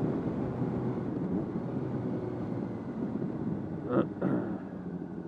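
Honda CBR600RR inline-four engine running under way, its pitch gliding up and down with the throttle, picked up by a microphone inside the rider's helmet. A brief sharp sound about four seconds in.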